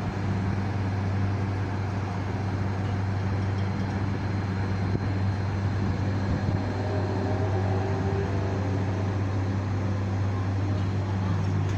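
Steady electrical machinery hum, with a strong low mains-frequency drone over an even mechanical noise, as from chiller plant-room motors and pumps running.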